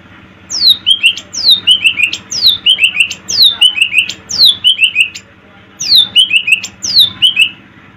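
Cucak ijo (green leafbird) singing: a loud phrase repeated about once a second, each a down-slurred whistle followed by two or three short notes, with a brief pause about five seconds in.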